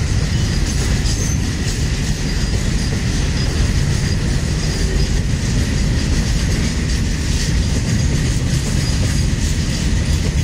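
Empty BOSTHSM open freight wagons rolling past at about 60 km/h: a loud, steady rumble of steel wheels on the rails, with a faint steady high whine over it.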